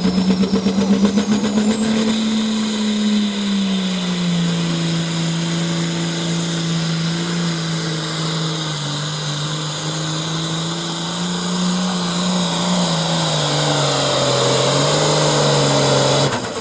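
A competition pulling vehicle's engine held at high revs under load as it drags the weight-transfer sled down the track. The pitch climbs a little in the first couple of seconds, then eases and wavers steadily, and the sound cuts off suddenly near the end.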